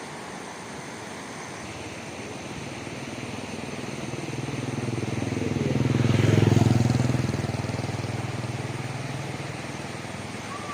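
A motorcycle passing by: its engine grows steadily louder, is loudest about six seconds in, then fades away as it moves off.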